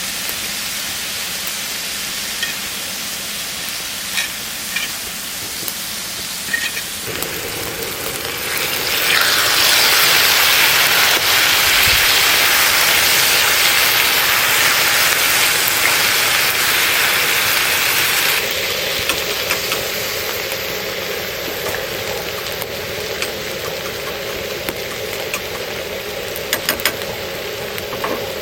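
Food sizzling in a hot pan, with a few light clicks of utensils. About nine seconds in, the sizzle grows louder and brighter for roughly ten seconds, then settles back to a steady sizzle.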